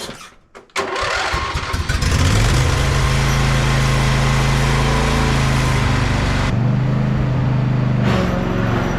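Craftsman ride-on lawnmower engine cranking and catching under a second in, then running steadily. About two thirds through, the higher hiss drops away while the engine keeps running.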